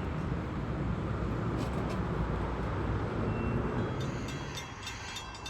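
Long Island Rail Road train rumbling through the station, a steady low rumble with engine tones that eases off shortly before the end.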